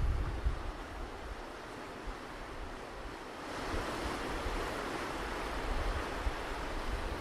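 Ocean surf washing on a beach, with wind buffeting the microphone as a low rumble. A gust on the microphone dies away at the start, and about three and a half seconds in the wash of a wave swells and carries on.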